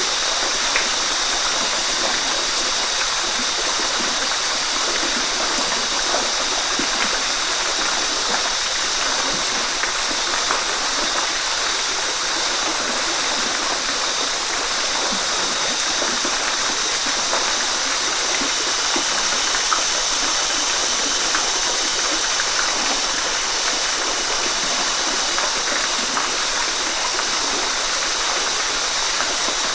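Waterfall rushing steadily: an even, unbroken hiss of falling water, strongest in the upper range.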